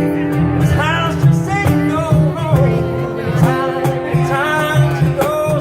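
A singer performing live with guitar accompaniment, the voice holding and bending sung notes over a steady strummed backing.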